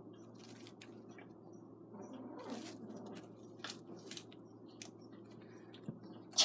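Soft scuffling, with scattered light clicks and rustles, of two kittens wrestling and play-biting, over a steady low hum.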